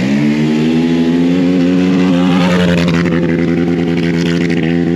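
Off-road race vehicle's engine launching from the start line. It climbs briefly, then holds one high, steady pitch for about four seconds without a gear change, still in first gear. The pitch breaks up near the end.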